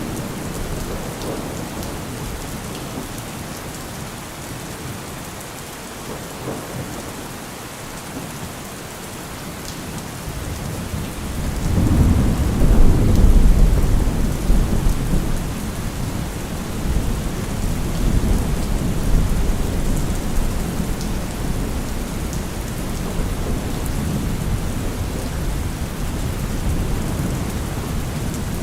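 Steady rain falling, with a low rumble of thunder that swells about halfway through, peaks briefly and rolls away slowly.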